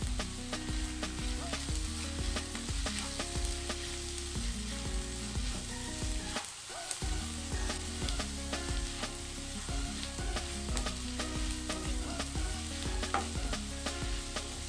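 Sliced onions, green chillies and ginger-garlic paste sizzling in oil in a nonstick pan while being stirred with a wooden spatula, which scrapes and taps against the pan many times. The paste is being mixed into the sautéed onions.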